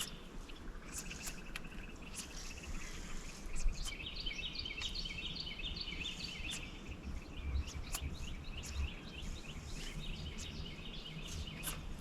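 Outdoor ambience of birds twittering, their chirping strongest in the middle, over a low steady rumble, with a few faint sharp clicks.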